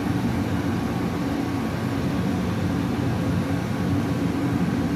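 Steady low mechanical hum, even and unchanging.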